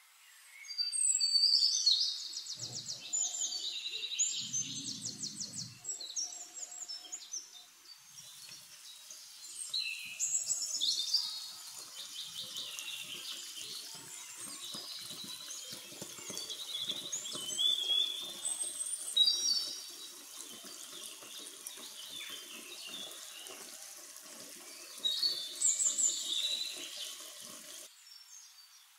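Birds chirping and calling, with a quick trill near the start and further bursts of chirps every several seconds.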